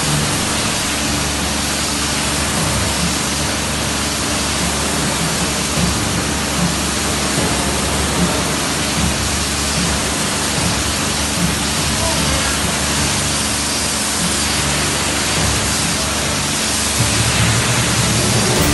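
Pressure washer spraying water in a steady, loud hiss, with background music underneath.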